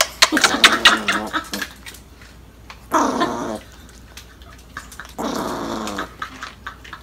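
Small Chihuahua growling in three bouts: a long one of nearly two seconds, then two shorter ones about three and five seconds in.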